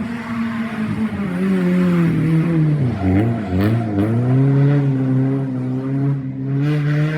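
Rally car engine at full volume going through a street-stage turn: the revs drop and jump about three seconds in as the driver lifts and shifts, then the engine pulls steadily with the pitch slowly climbing.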